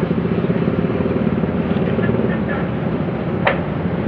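Heavy diesel engine running steadily with a fast, even pulse, and one short click about three and a half seconds in.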